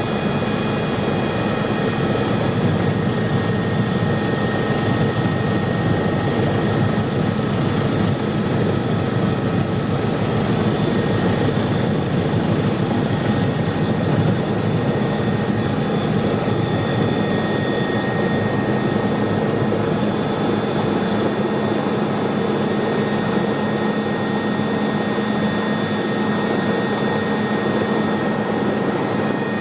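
Helicopter running steadily: a constant rush of engine and rotor noise with a few steady high whines over it.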